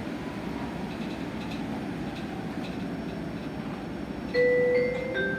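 Steady low running noise inside an electric bus's passenger cabin. About four seconds in, a two-note descending chime sounds, the signal that comes before the automated stop announcement.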